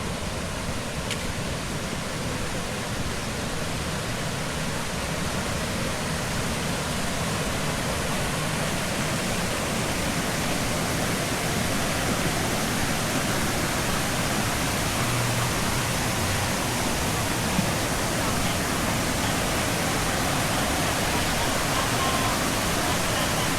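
Rushing water of the Huai Mae Khamin stream cascading over tiered limestone falls: a steady hiss that grows slowly louder.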